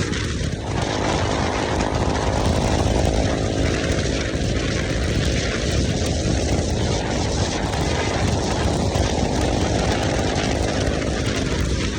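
KTM motorcycle engine running through its exhaust, its revs rising about a second in, easing off, then swelling again and dropping back near the end, under a steady rushing noise.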